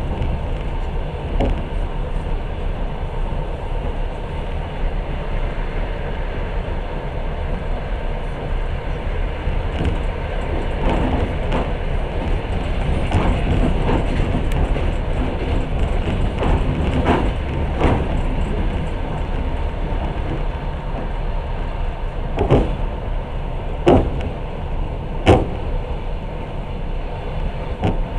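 Moving passenger train heard from inside the carriage: a steady rumble and hiss of the wheels running on the rails, with scattered sharp knocks, three louder ones near the end.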